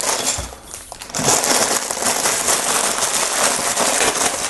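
Plastic Lego parts bags crinkling as they are handled, a steady crackle from about a second in.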